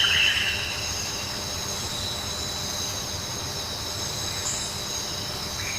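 Rainforest ambience: a steady, layered high-pitched drone over an even hiss, with a brief louder call at the very start.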